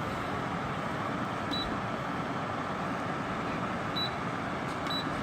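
Hisense DH70 dehumidifier running steadily, with three short high beeps from its push-button control panel, about a second and a half in, near four seconds and near the end.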